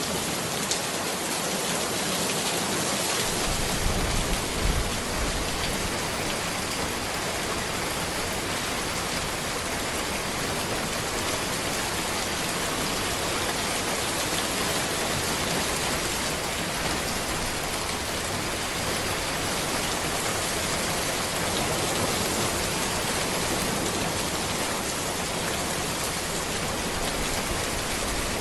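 Steady heavy rain falling on a road and trees, an even dense hiss, with a couple of brief low thumps about four to five seconds in.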